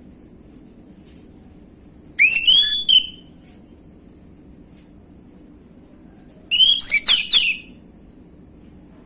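Orange-headed thrush singing two short phrases of loud, rising whistled notes, about two seconds in and again about six and a half seconds in.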